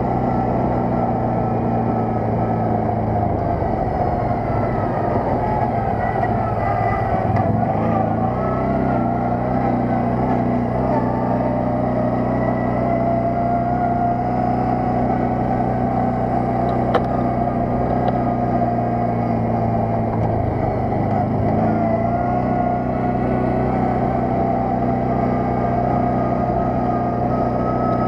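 Quad bike (ATV) engine running under way, steady, with its pitch dipping and coming back up twice: between about four and nine seconds in, and again around twenty-one seconds.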